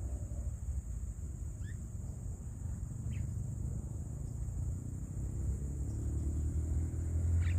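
Steady low rumble as a motor vehicle's engine approaches, its hum growing louder over the last second or two. A few short bird chirps sound about two seconds in, at three seconds and near the end, over a steady high insect drone.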